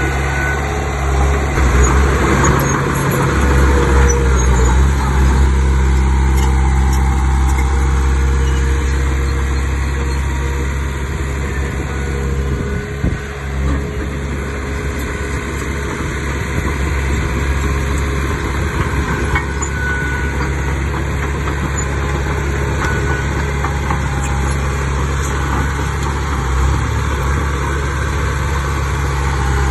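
Heavy diesel engine of earthmoving machinery running steadily with a deep, even hum, rising and falling slightly as the load changes.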